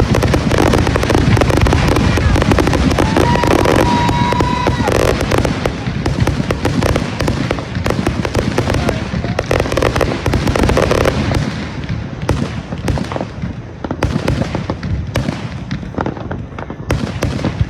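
Fireworks going off in a dense barrage of rapid crackling and bangs, with a steady whistle a few seconds in; the barrage thins to scattered cracks near the end.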